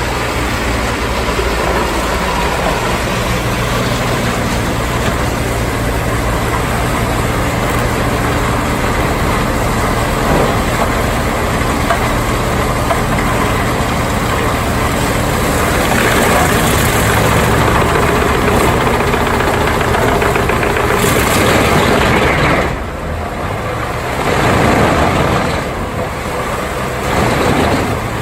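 Large wood chipper with its engine running steadily, then a louder, noisier stretch of grinding as material goes through, which drops off suddenly and swells twice more near the end.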